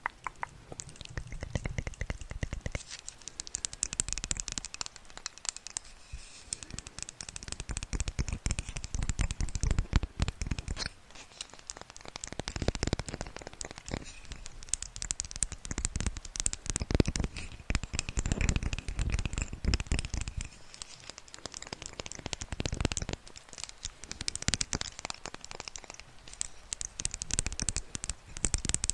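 Close-miked ASMR trigger sounds: dense crackling, scratching and rustling with quick clicks, coming in surges with soft low thumps.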